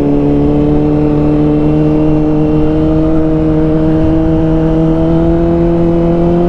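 Honda CBR600RR's inline-four engine pulling steadily in one gear, its pitch rising slowly and evenly as the bike gains speed, over a rushing low noise of wind and road.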